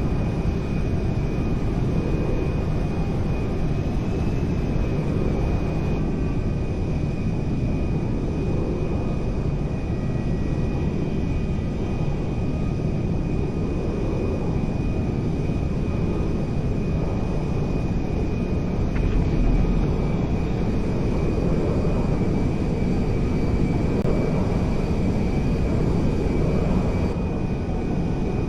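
Aircraft engine noise: a steady, dense rumble with a thin steady whine above it, swelling briefly near two-thirds of the way through.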